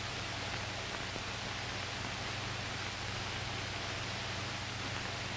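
Steady soundtrack hiss with a faint low hum, the background noise of an old training film's audio, with no clear hammer strikes.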